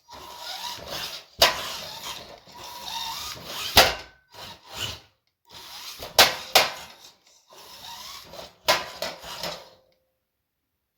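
Rough scraping and rubbing in uneven stretches, broken by five sharp knocks, with a faint steady whine under part of it.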